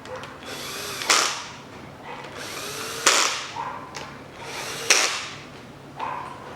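Power driver running timing-chain tensioner and guide bolts in, three times, each run ending in a sharp loud snap. The bolts are being snugged down before final torquing.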